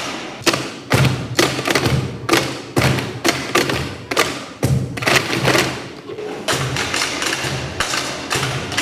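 Percussion music: a steady rhythm of knocks and low thuds, about two strikes a second.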